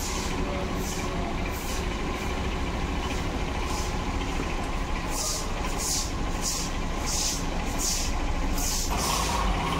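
Small hatchback car's engine running steadily at idle, with a rhythmic hissing about twice a second starting about halfway through.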